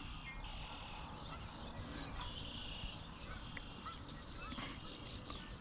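Quiet outdoor ambience: a low steady rumble with a few faint short bird calls.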